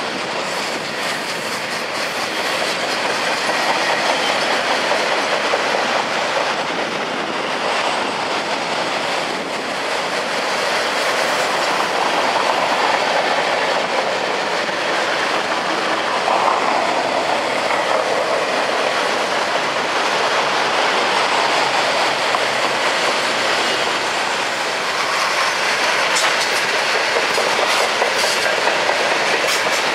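Freight train cars rolling past, wheels on the rails making a steady noise with clickety-clack over the rail joints.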